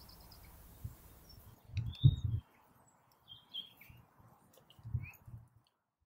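Small birds chirping in short scattered calls, with a few soft low thumps, until the sound cuts out near the end.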